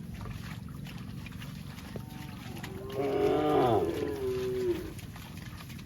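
A cow mooing once, one call of about two seconds starting about three seconds in, its pitch dropping at first and then holding level.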